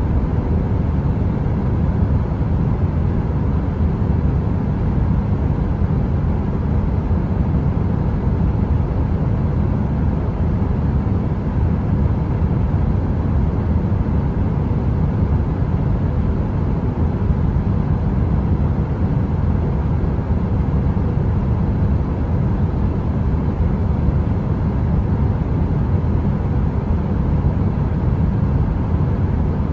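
Heater fan running steadily: a deep, even rushing noise with a faint hum, unchanging throughout.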